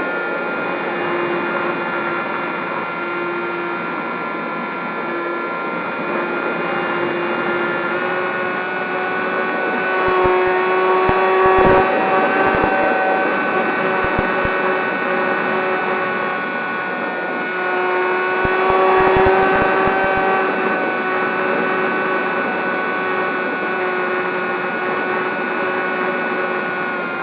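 Electric motor and propeller whine of a Zohd Talon GT Rebel RC plane in flight, holding a steady pitch with small changes in throttle. The whine swells twice, about ten seconds in and again near the twenty-second mark, as the plane passes closer, with a few low thumps of wind on the microphone.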